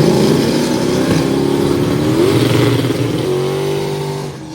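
Drag race car engine running hard at high revs, its pitch climbing and then holding. The sound drops away near the end.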